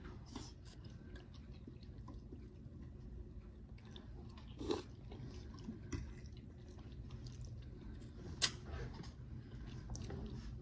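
A person chewing food close to the microphone, with small wet mouth clicks and two sharper clicks, one near the middle and one later on.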